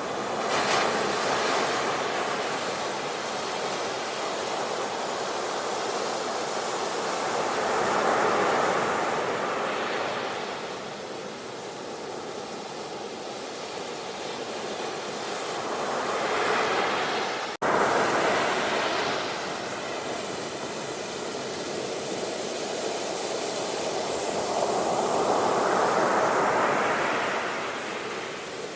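Sea waves breaking and washing ashore, surging and falling back about every eight seconds. A split-second gap in the sound just past the middle.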